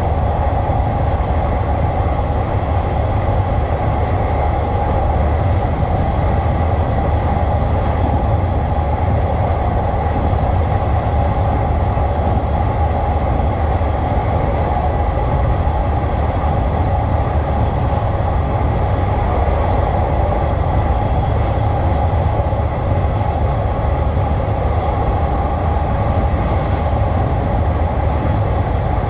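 Passenger train running along the track, heard from on board: a steady, unbroken rumble of wheels on rail with a constant hum and a faint high tone.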